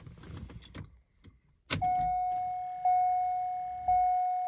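A sharp click, then the C5 Corvette's dashboard warning chime: a steady electronic ding that repeats about once a second, each ding fading before the next.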